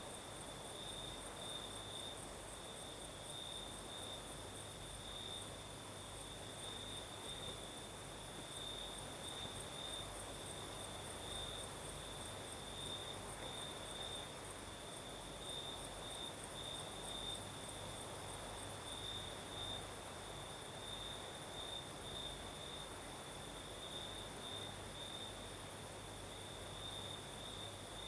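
Crickets singing at night in a steady, pulsing chorus, with a second, higher-pitched layer of insect chirping above it. A soft hiss of breeze lies underneath.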